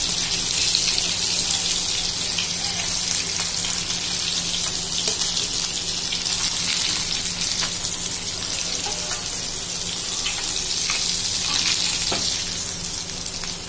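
Fish pieces shallow-frying in hot oil in a pan, giving a steady sizzle. A few faint clicks of a metal spatula come through as pieces are lifted out.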